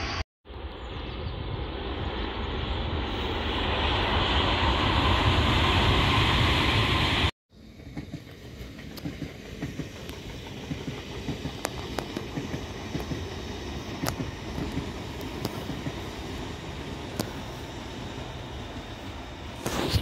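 Passing train: a steady rushing rumble that swells over several seconds, then breaks off abruptly. After it comes a quieter, steady rumble with scattered sharp clicks.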